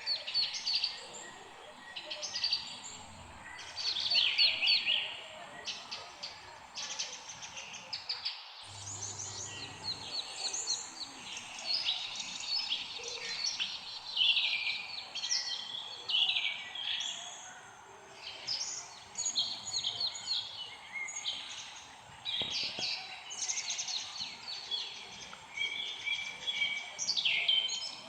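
Several songbirds chirping and singing over one another in a dense chorus of quick, high chirps and trills. The sound briefly cuts out about eight seconds in.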